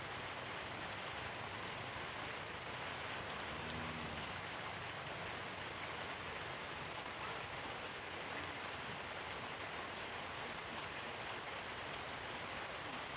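Steady hiss of tropical rain falling, with a constant high-pitched whine above it and a short low croak about four seconds in.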